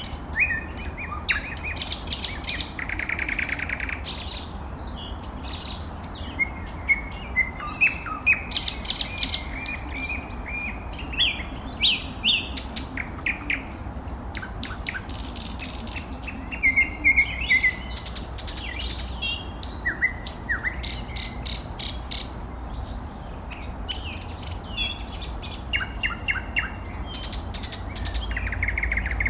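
Nightingale singing a varied song of short separate phrases: rapid repeated notes, trills and clear whistles, with brief pauses between phrases. A steady low hum runs underneath.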